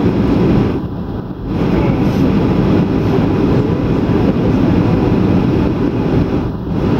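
Steady low cabin noise inside a Boeing 737-800 in flight: the roar of its CFM56 engines and the airflow past the fuselage. The noise dips briefly about a second in and again near the end.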